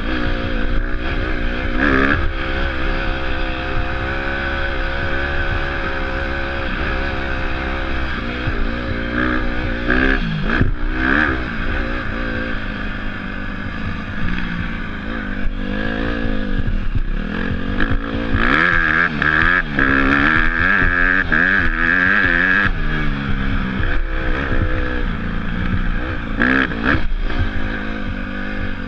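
Dirt bike engine being ridden, its revs rising and falling again and again through gear changes and throttle, with the hardest run of throttle about two-thirds of the way through.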